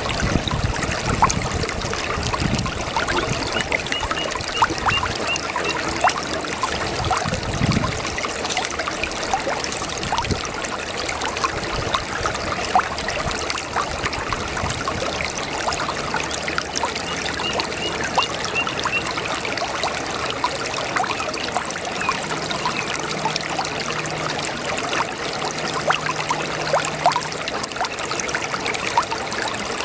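A babbling brook: shallow water trickling and splashing over stones in a steady, bubbling flow. Twice a faint series of quick high chirps rises above it.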